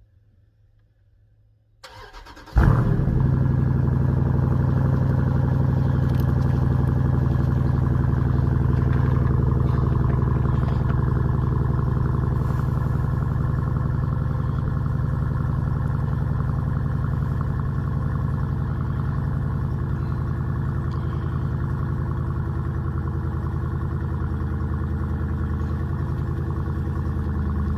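Dodge Durango SRT's HEMI V8 cold start: the starter cranks briefly about two seconds in, the engine catches with a loud flare, then settles into a steady cold idle that eases down slowly.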